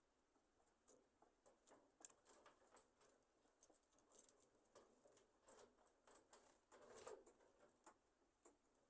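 A roosting flock of budgerigars making faint, scattered short high chirps and small rustles. The sounds come thicker through the middle, with the loudest one about seven seconds in.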